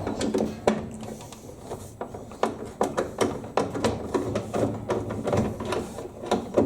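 Irregular sharp clicks and light knocks of a screwdriver working on the Torx screws that hold a tumble dryer's door.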